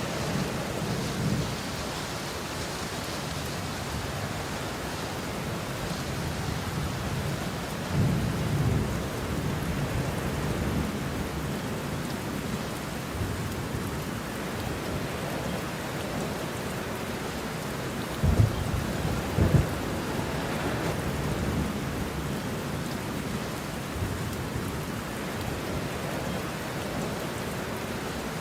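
Steady heavy rain with rolling thunder. The low rumbles swell now and then, and two sharper cracks of thunder, a second or so apart, come past the middle.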